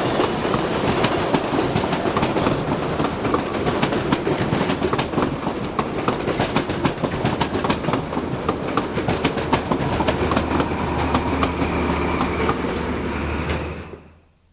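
Train running on the track, its wheels clicking and clattering over rail joints amid steady rumbling noise. About ten seconds in a steady low hum joins, and the whole sound fades out just before the end.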